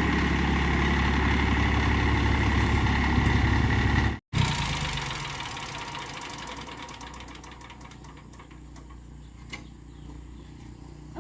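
Old tractor engine running steadily. Its sound cuts off abruptly about four seconds in, leaving a much fainter sound that fades away, with a few light clicks.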